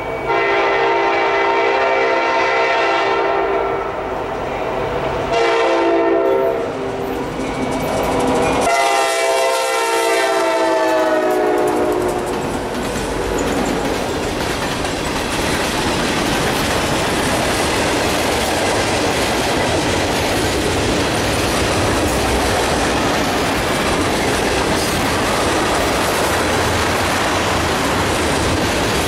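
Freight locomotive air horn on the lead unit, an SD80MAC, sounding a long blast, a short one, then another long blast that drops in pitch as the locomotives pass. After that, a loaded mixed freight of hopper and tank cars rolls by with a steady rumble and clatter of steel wheels over the rail joints.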